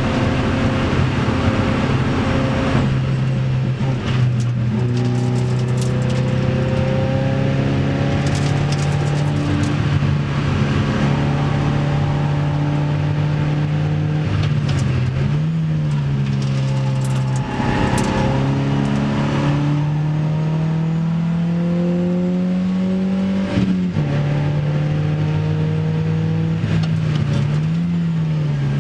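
Opel Speedster's 2.2-litre four-cylinder engine heard from inside the cabin, running hard on track. Its pitch climbs steadily, with sharp drops at the gear changes, over steady wind and road noise.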